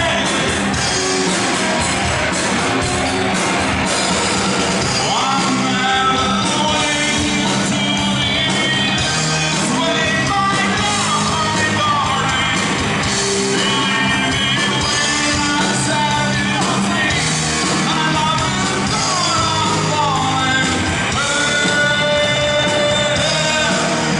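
Rock band playing live with a lead singer: dense, loud music with sung vocal lines throughout.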